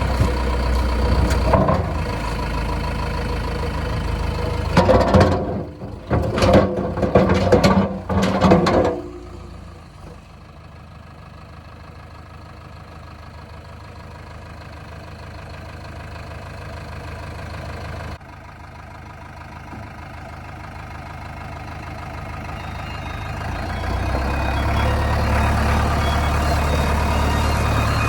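JCB 3DX backhoe loader's diesel engine running, loud and uneven with several surges for the first nine seconds or so. It then drops to a quieter, steady run and builds up louder again near the end.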